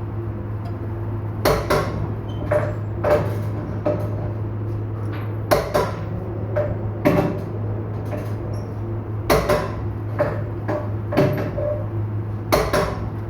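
Irregular sharp clanks and knocks of metal tools and parts being handled during truck tyre work, about a dozen over several seconds, some with a short ring, over a steady low machine hum.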